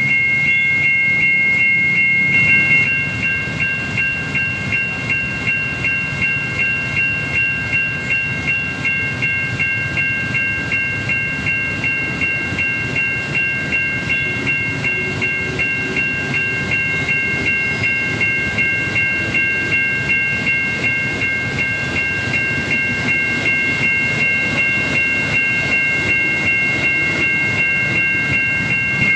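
Railroad crossing's electronic warning bell, from a Siemens crossing package with an American-style sound, ringing in a fast repeating ding, about two strikes a second. A steady high tone turns into this pulsed ringing about three seconds in, with a low rumble underneath.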